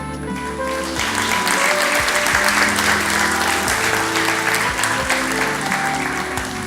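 Audience applauding over soft instrumental background music. The clapping starts about a second in and dies down near the end.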